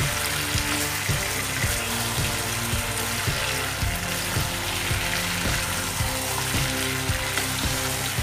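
Chicken pieces sizzling in hot oil and masala in a nonstick pan as they are stirred with a wooden spatula, over background music with a steady beat.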